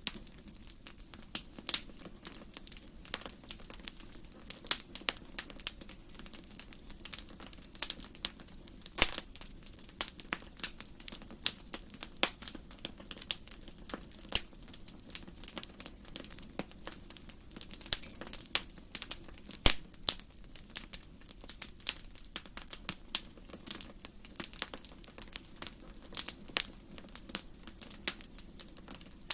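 Wood fire burning in a fireplace, crackling and popping with many irregular sharp snaps over a low steady rush of flame.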